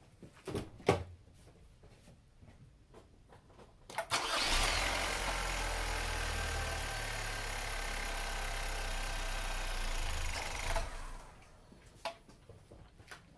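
A couple of sharp knocks about a second in, then a Chevrolet Cruze 1.4 L LE2 turbocharged four-cylinder is started, catching at once with a brief rising whine, and idles steadily for about six seconds before it is switched off. It is the first run on fresh oil after an oil change, kept going until the oil pressure light goes out.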